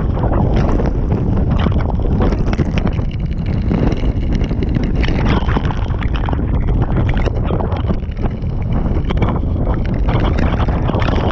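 Strong wind blowing across the microphone: a loud, unbroken rush heaviest in the low end.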